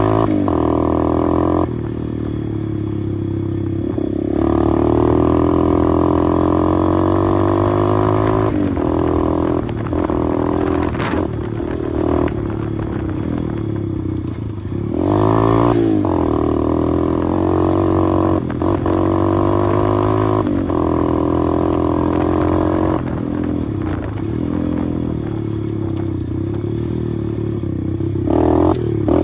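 A 125cc pit bike engine running while being ridden, its pitch rising and falling over and over with the throttle.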